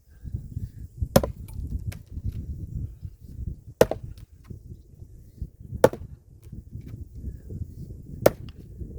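Wood being chopped by hand: four sharp strikes, about two to two and a half seconds apart, over a steady low rumble.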